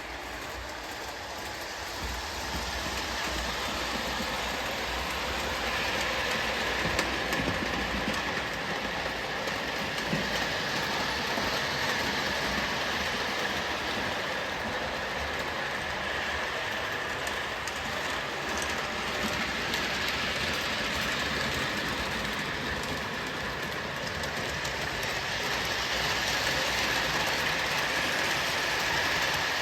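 O gauge Williams by Bachmann FM Trainmaster model locomotive and box cars running on track: a steady rumble of wheels on rail with a steady high whine, swelling and easing as the train goes around the layout.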